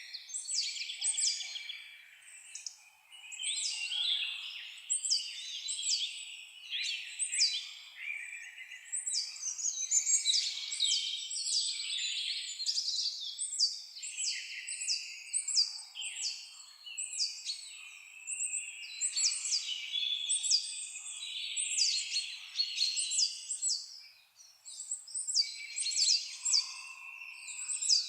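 A chorus of birds chirping and singing without pause: many quick, high notes overlapping, a lot of them sweeping down in pitch.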